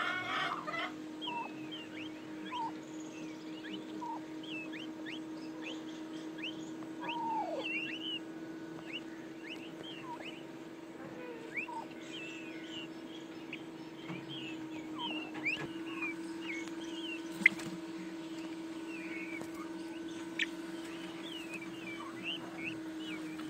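Many birds chirping and calling in quick, short chirps throughout, over a steady low hum, with one sharp tap about two-thirds of the way through.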